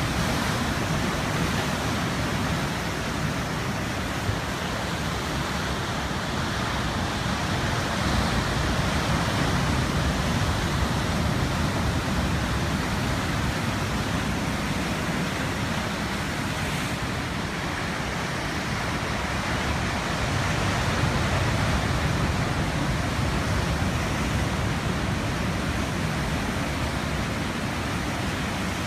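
Heavy ocean surf breaking and washing on the shore ahead of a storm: a continuous rush of noise, strongest in the low end, that swells and eases slowly.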